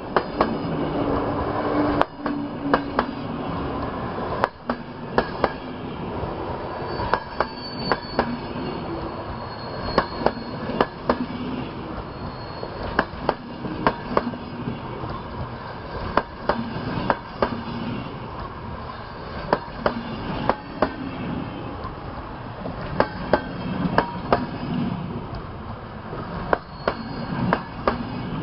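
Passenger train coaches rolling past: a steady rumble of steel wheels on rail, with sharp clicks in close pairs as each bogie's wheels cross the rail joints. A faint high wheel squeal comes in now and then.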